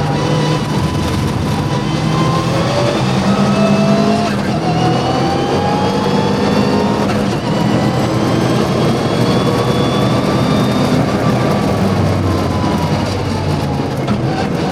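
Mitsubishi Lancer Evo VI Group A rally car's turbocharged four-cylinder engine under hard load on track. The engine note climbs steadily over several seconds, then falls away about eleven seconds in.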